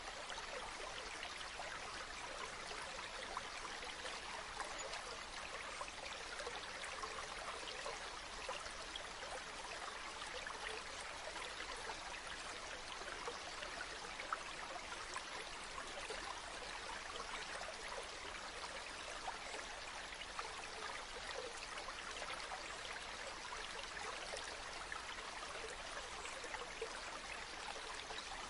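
A river flowing steadily: continuous rushing and babbling water with small splashes throughout.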